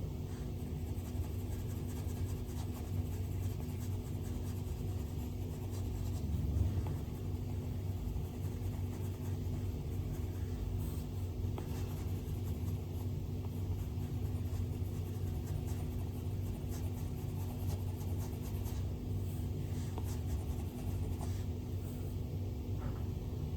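Stylus nib stroking and tapping on an iPad's glass screen while drawing: scattered faint light ticks and scratches over a steady low hum.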